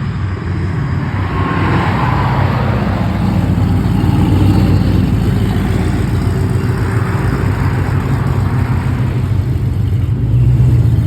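A car engine running loud through its exhaust, a low steady drone that swells slightly near the end.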